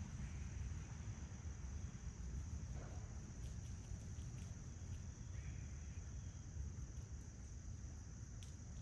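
Backyard outdoor ambience: a steady high insect trill, likely crickets, over a low rumble of wind or distant traffic, with a few faint ticks and one brief faint bird call about five seconds in.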